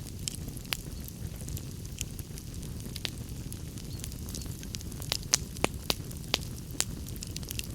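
Wood fire crackling in a fireplace: irregular sharp pops and snaps over a steady low rumble of the flames, a few louder pops near the end.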